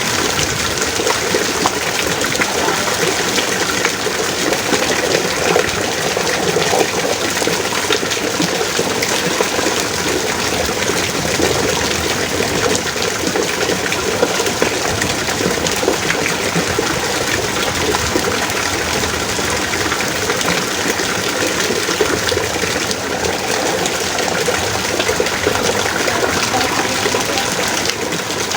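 Heavy rain pouring steadily, a dense unbroken hiss of water.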